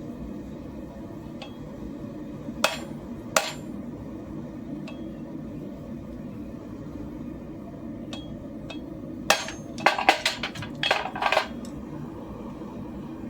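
Steel clanking against steel: two sharp ringing clanks about three seconds in, then a quick run of clanks and clinks between about nine and eleven and a half seconds, over a steady low hum.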